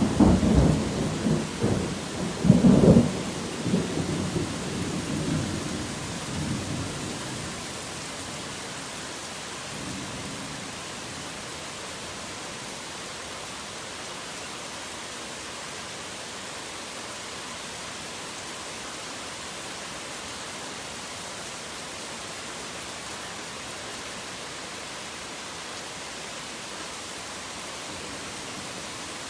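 Thunder in a rainstorm: a clap right at the start rolls and rumbles for about seven seconds, loudest again near three seconds in, then dies away. A faint further rumble comes around ten seconds, and steady rain hisses throughout.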